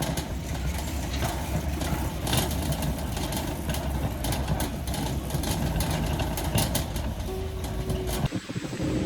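A vehicle engine running with a steady low rumble, broken by scattered clicks; the sound drops out briefly about eight seconds in.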